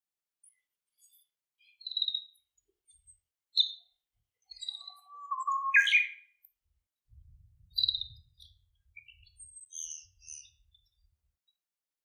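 Wild small birds calling: a scatter of short, high chirps and thin whistles, with a lower note about five seconds in, then the loudest call, a sharp one, just before six seconds.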